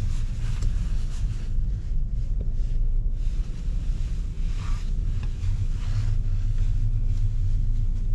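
Volkswagen Golf VI with a 1.4 TSI petrol engine on the move: a steady low rumble of engine, tyre and wind noise, with no sharp events.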